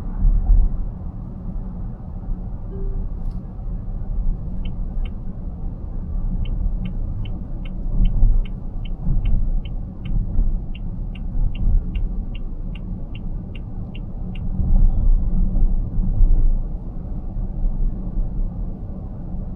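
Car cabin road and tyre rumble while driving, with the turn-signal indicator ticking steadily at about two to three ticks a second for several seconds in the middle, as the car moves right.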